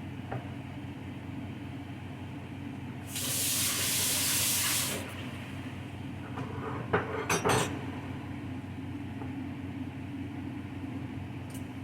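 Kitchen sounds over a steady low hum: a loud hiss lasting about two seconds, then a quick clatter of a few sharp knocks.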